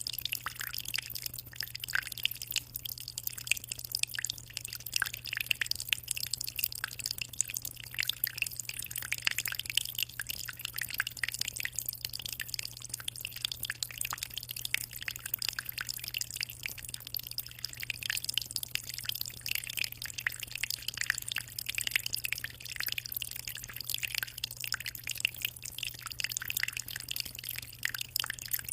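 Water in a 60-litre aquarium trickling and splashing without a break, a dense irregular patter of small drops and splashes, over a steady low hum.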